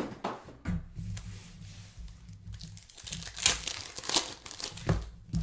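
Basketball trading card pack wrappers being torn open and crinkled by hand, in a run of irregular rips and rustles, the loudest about three and a half seconds in.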